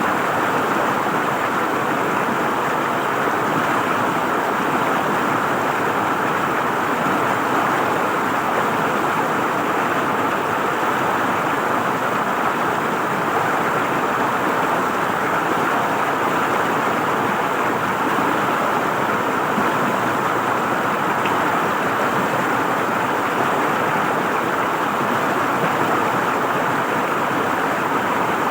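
River water flowing and gurgling over rocks in a steady, even rush.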